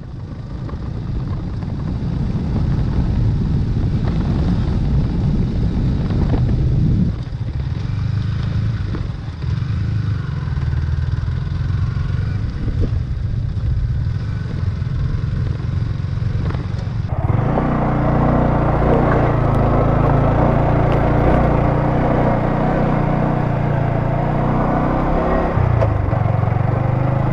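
Yamaha R15 V3's 155 cc single-cylinder engine running steadily while the motorcycle is ridden at low speed over a rough road and dirt track. About 17 seconds in the sound changes abruptly, becoming louder and fuller.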